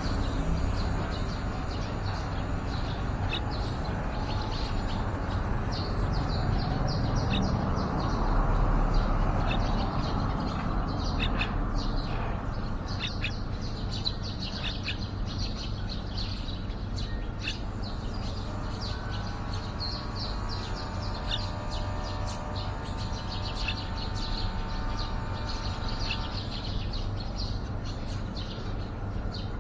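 Yellow-vented bulbuls chirping in many short, quick notes, busiest from about a third of the way in, over a steady low background rumble.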